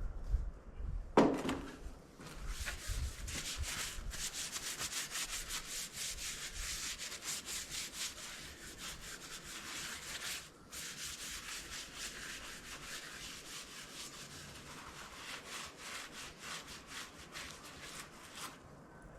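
Rapid back-and-forth hand scrubbing over the metal surface of a tractor part, cleaning it down for paint, with a short break about ten seconds in. A single knock about a second in is the loudest sound.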